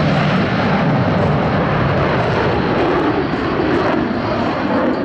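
Jet noise of Blue Angels F/A-18 Super Hornets in flight: a loud, steady rumble from their F414 turbofan engines as the jets break away from the formation.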